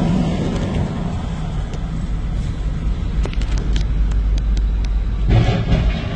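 Steady heavy rumble of a moving vehicle, with a quick run of sharp clicks about halfway through and a louder surge of noise near the end.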